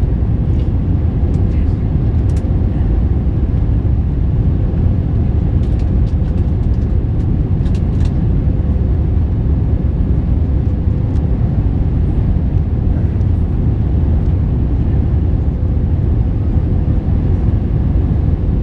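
Steady engine and airflow drone of an Airbus A321-231 in flight on its IAE V2500 turbofans, mostly low rumble with a thin steady hum above it.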